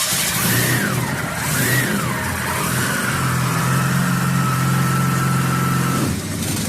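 A car's rotary engine revving, with a thin whine on top. The pitch rises and falls twice in the first couple of seconds, then holds at a steady higher rev before easing off near the end.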